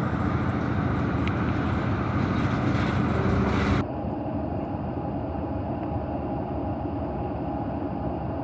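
Steady running noise of a moving vehicle, heard from inside. About four seconds in it changes suddenly to a quieter, lower rumble.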